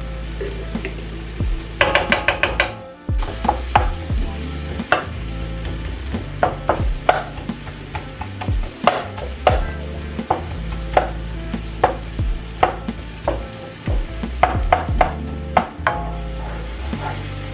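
Onions and garlic frying in butter in a pot, with a spoon stirring and knocking against the pot many times at irregular intervals. A brief high ringing comes about two seconds in.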